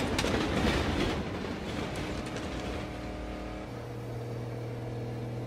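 Rumbling vehicle driving noise that fades over the first couple of seconds. From about halfway in, a steady hum of several held tones takes over.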